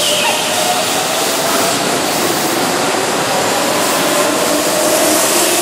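Keihan Electric Railway commuter train running alongside the platform: steady rumble and rolling noise of the cars, with a faint motor whine.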